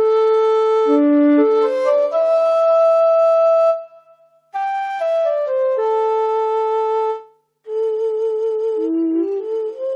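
Yamaha PSR-SX700/SX900 arranger keyboard playing a solo melody on a sampled flute voice, without accompaniment, in three short phrases with brief breaks between them.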